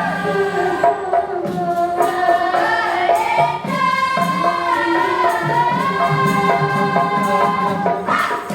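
Choir of several voices singing held, gliding notes over a light, regular percussion beat.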